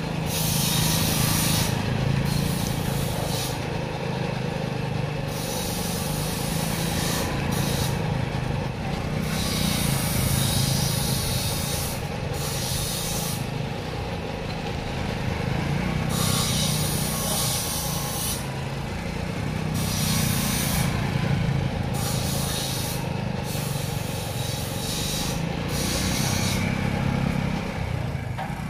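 Motorcycle engine running steadily, with a high hiss that repeatedly cuts in and drops out.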